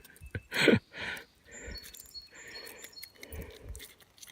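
A person's breathy sighs and a short grunt while pulling a hook from a small bass's mouth, with a few faint high bird chirps in the background.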